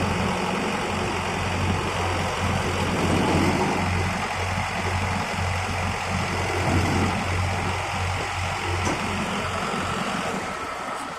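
A heavy vehicle's diesel engine running steadily, with a strong low hum and a broad mechanical noise over it.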